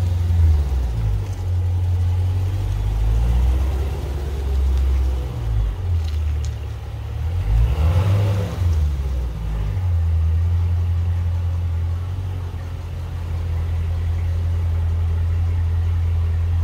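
Dodge Challenger V8 running with a steady low rumble as the car creeps along at low speed. The rumble wavers briefly about halfway through, then settles back to an even idle.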